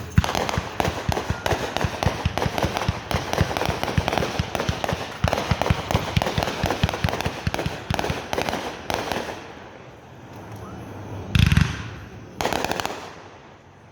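Fireworks going off: a rapid volley of sharp crackling reports for about nine seconds, then after a short lull two louder bangs about a second apart.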